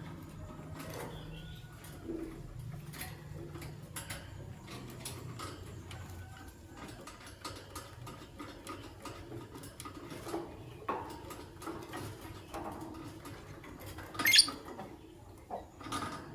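Caged lovebirds: albino and pastel green Fischer's. Scattered small clicks and scratching run through, with one sharp, loud chirp about fourteen seconds in.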